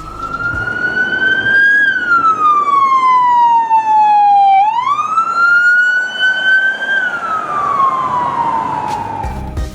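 Emergency vehicle siren on a slow wail: the tone climbs a little, falls over about three seconds, climbs again about halfway through, then falls once more near the end.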